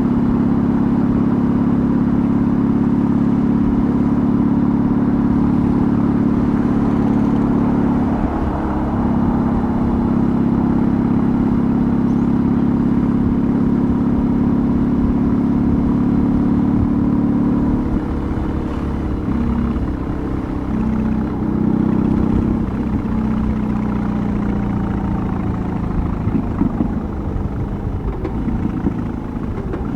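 BMW R18's big boxer-twin engine running under way. It holds a steady note with one brief dip about a quarter of the way in. About two-thirds through, the note drops and turns uneven and choppy.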